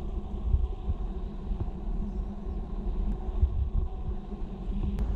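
Car engine idling: a low, steady rumble.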